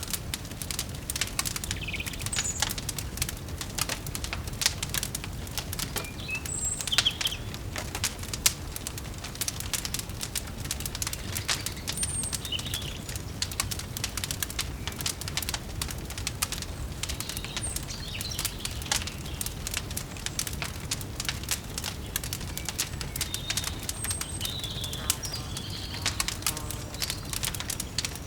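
Wood fire crackling, with many small pops over a low steady rumble, and short bird chirps now and then.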